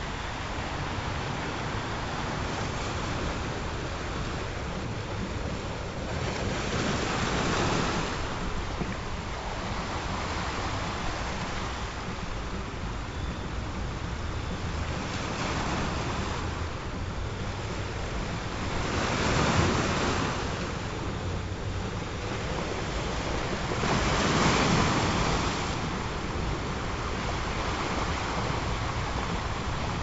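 Ocean surf: a steady wash of waves, with three louder breakers swelling and fading away.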